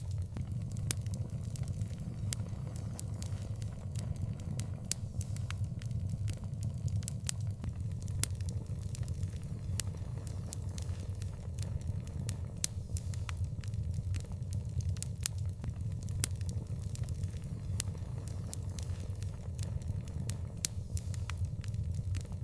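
Fire crackling, with frequent sharp irregular pops over a steady low rumble.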